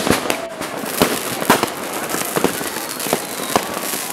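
New Year's fireworks going off all over a city: rockets and firecrackers banging at irregular intervals, several close together at times, over a constant crackle of more distant explosions.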